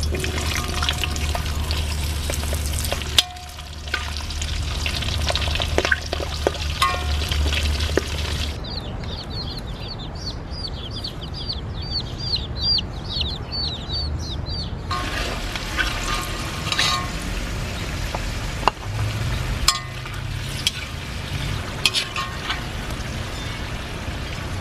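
Whole small potatoes sizzling in hot oil in a wok, with scattered clinks and scrapes of a slotted metal spoon. About a third of the way in, the frying gives way for several seconds to young chicks peeping rapidly and high-pitched, about three peeps a second, before the sizzling and stirring resume.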